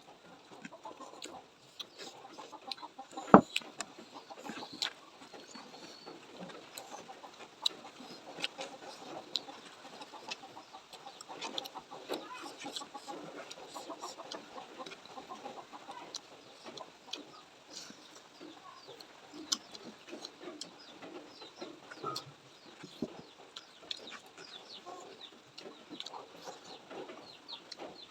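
Close-up eating sounds: chewing and crunching fried chicken, with many small mouth clicks and a single sharp clack about three seconds in.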